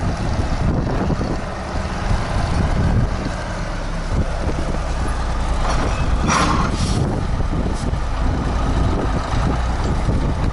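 A snow-clearing wheeled tractor's diesel engine running steadily, with wind blowing across the microphone. A short hiss breaks in about six seconds in.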